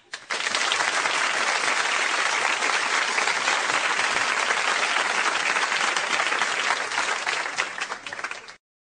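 Crowd applause: many hands clapping in a steady, dense patter that thins out and stops shortly before the end.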